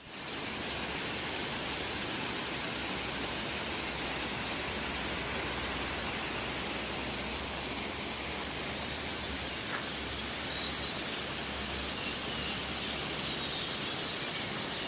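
Waterfall rushing: a steady hiss of falling water, with a few faint bird chirps over it in the last few seconds.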